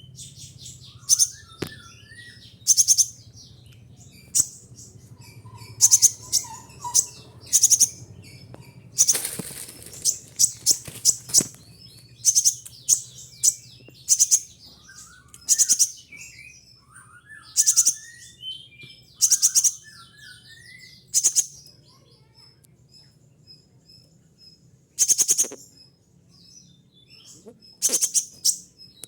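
Kolibri ninja sunbird (konin) calling: short, sharp, very high-pitched bursts of rapid notes, repeated every second or two, with softer, lower twittering between them. A brief rustle comes about nine seconds in, over a faint low steady hum.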